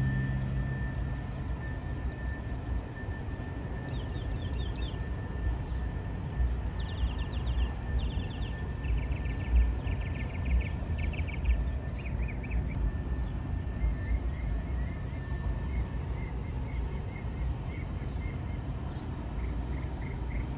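Outdoor ambience: a steady low rumble with a faint steady high whine, and a small bird singing runs of quick, high chirps and trills again and again.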